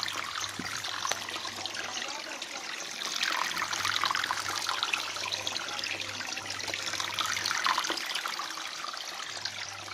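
Water splashing and trickling steadily, a little louder from about three seconds in, with a low hum that comes and goes.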